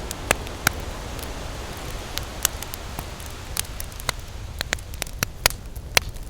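Wood campfire crackling with sharp, irregular pops, a few of them much louder, over a steady low rumble of ocean surf.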